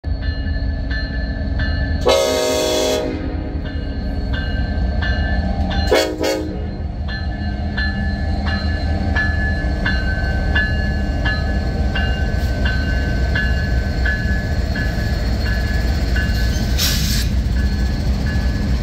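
Norfolk Southern diesel freight locomotives rumbling past at low speed with a bell clanging steadily about twice a second. The locomotive horn sounds twice, once for about a second and then a short toot a few seconds later. A brief hiss comes near the end.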